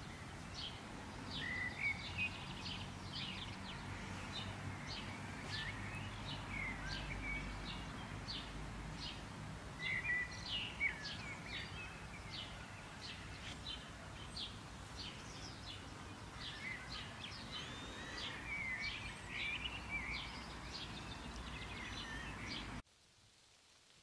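Many birds chirping and calling over a faint outdoor background, many short chirps and quick little sweeps with no steady rhythm. It cuts off abruptly near the end.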